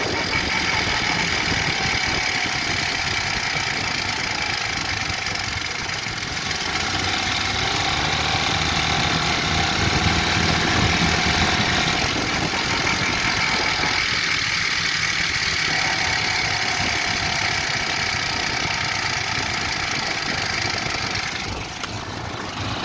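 Gsmoon 260-1's engine running steadily at idle, making the odd noises that its owner cannot explain.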